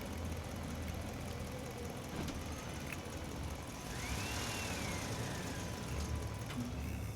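Steady low engine rumble, like a vehicle idling. About four seconds in, a thin whistle-like tone rises and then slowly falls.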